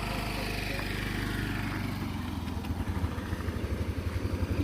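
Small motorcycle engine running steadily, its low beat growing rougher and louder from about halfway through.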